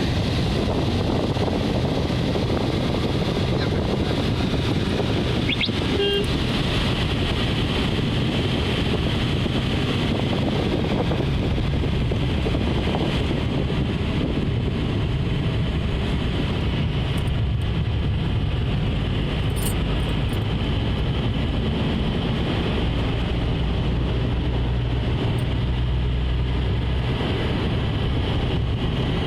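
Steady running noise of a vehicle, a low engine hum under an even rush of noise, with a short pitched tone about six seconds in.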